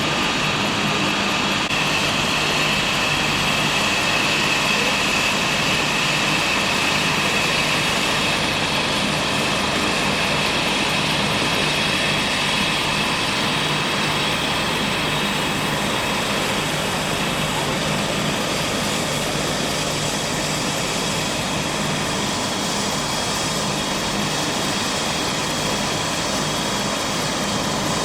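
Air ambulance helicopter's turbine engine running steadily, a constant high whine over a steady drone.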